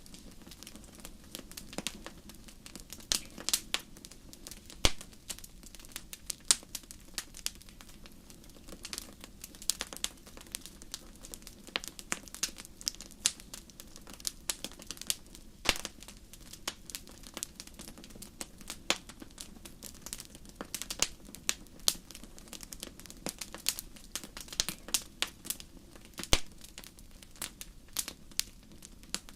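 Wood fire burning in a fireplace, crackling with many irregular sharp snaps and a few louder pops, over a faint steady low hum.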